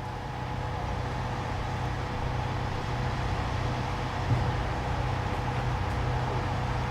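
Steady street noise with a vehicle engine running, a low steady hum under a noisy wash, and a brief knock about four seconds in.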